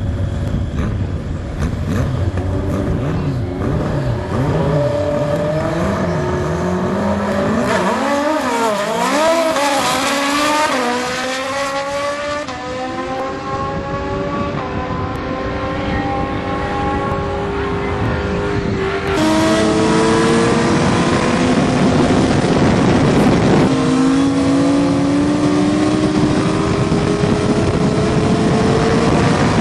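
Sport-bike motorcycle engines revving, the pitch wavering up and down, then climbing in long rising pulls as the bikes accelerate. The sound jumps louder about two-thirds of the way through.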